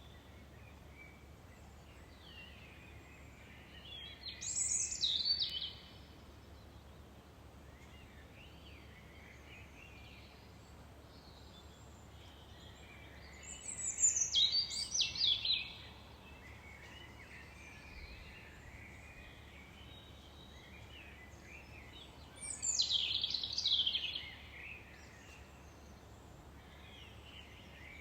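Birdsong: one bird sings a loud, high, fast phrase of about two seconds three times, roughly every nine seconds, over faint chirping from other birds.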